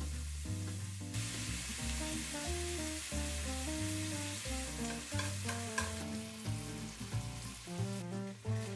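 Food sizzling in a frying pan, a steady hiss that eases off near the end, over background music with a bass line.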